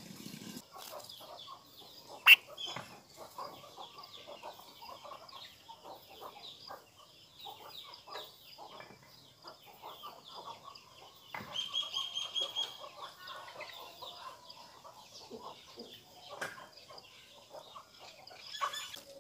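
Birds calling in many short chirps and clucks, with one sharp click about two seconds in and a louder, higher run of calls about twelve seconds in.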